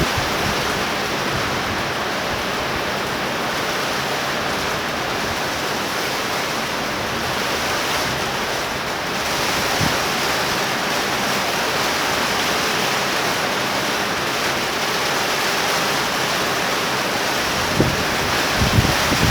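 Torrential rain pouring down in a thunder shower, a steady loud hiss. Near the end, wind gusts start to buffet the microphone with low rumbles.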